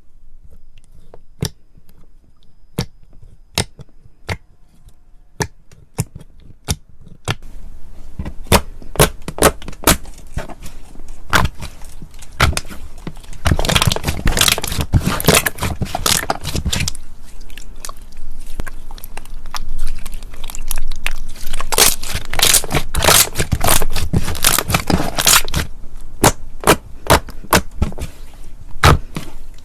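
Slime being pressed and squeezed by hand close to the microphone, giving sharp clicks and pops. The clicks come singly at first; about seven seconds in they thicken into a dense, loud crackling with louder stretches.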